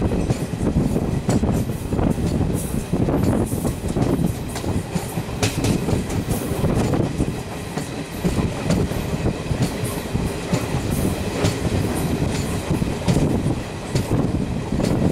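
Duronto Express passenger train passing through a station at speed: a continuous loud rumble of the coaches with wheels clattering in quick irregular clacks over the rail joints.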